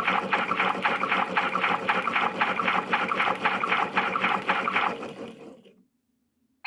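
Battery-powered toy washing machine playing its electronic wash sound effect: a pulsing, watery churning at about four to five beats a second over a steady low hum. It fades out about five seconds in and stops.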